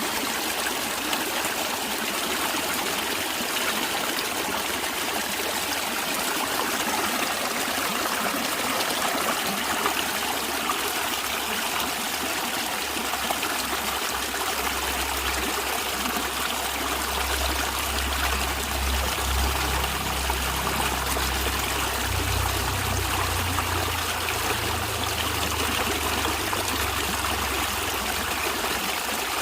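Stream water flowing and trickling, a steady, unbroken rush. A low rumble comes in under it for about ten seconds midway through.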